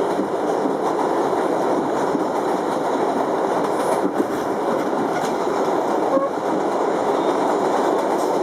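R62 subway car running along the track, heard from inside the car: a steady rumble of wheels on rail, with two short sharp knocks about four and six seconds in.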